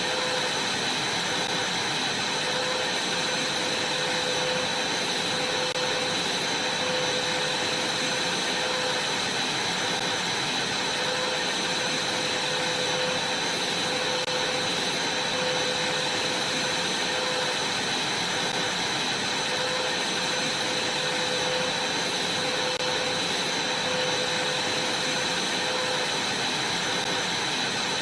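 Vacuum cleaner running steadily, an even rushing noise with a steady high whine.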